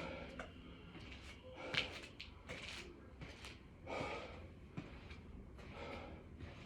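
A man breathing hard from exertion during burpees: short, forceful breaths and gasps, roughly one a second.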